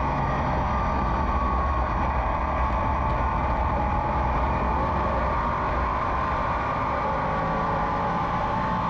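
SK modified race car engine running hard at racing speed, a steady drone whose pitch rises and falls slightly through the laps.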